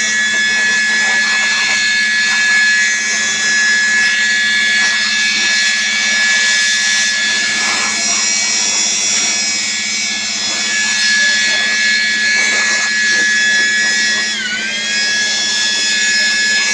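A small electric motor whining steadily over a rushing noise and a low hum. Near the end its pitch drops sharply for a moment, as if briefly loaded, then climbs back to speed.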